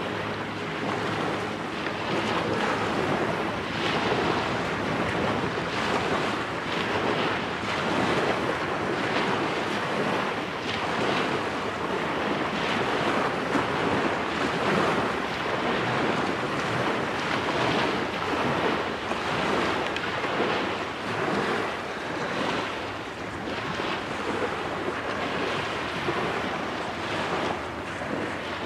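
Wind gusting across the microphone with waves washing onto the shore, a continuous rushing noise that rises and falls.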